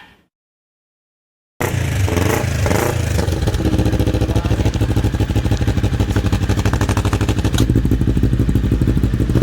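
CFMoto NK400's 400 cc parallel-twin engine running through an aftermarket Akrapovic-style muffler during an exhaust sound check, idling with a rapid, even exhaust pulse. It comes in loud about a second and a half in.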